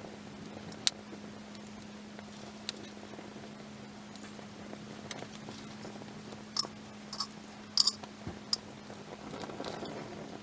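Wood campfire crackling, with sharp pops scattered through it and a quick cluster of them past the middle. A steady low hum runs underneath.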